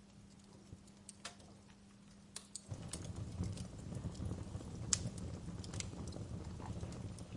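Wood fire crackling with sparse sharp pops. About two and a half seconds in, a louder low rush of burning comes in suddenly and the pops come more often.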